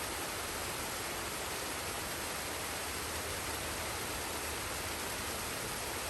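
Forest waterfall and stream: water falling and running in a steady, even rush with no change.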